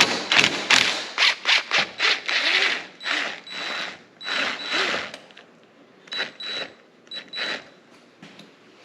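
Hand ratchet with a 10 mm socket working a bolt, a fast run of ratcheting clicks in strokes through the first half, then shorter, fainter bursts, dying away near the end.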